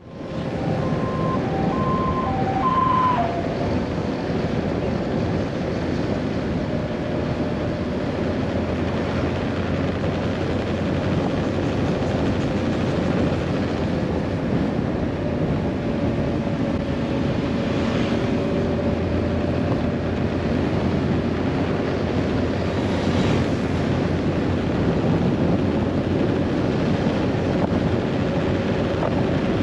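Scooter riding along, its engine running steadily under road and wind noise. A few short beeps sound in the first few seconds.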